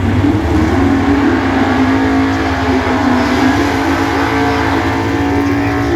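Drag-racing cars, an older Dodge and a Chevrolet Nova, at full throttle on a run down the strip, with a loud, steady engine note.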